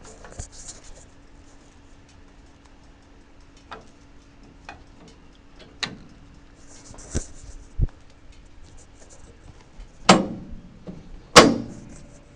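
Scattered light knocks and clicks, then two loud clunks a little over a second apart near the end, over a faint steady hum.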